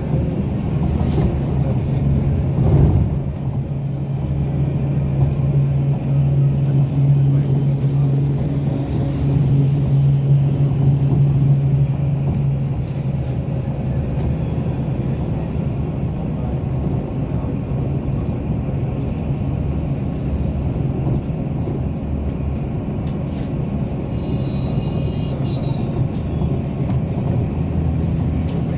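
Steady rumble of a moving road vehicle heard from inside it, with a low engine hum that is strongest for the first dozen seconds.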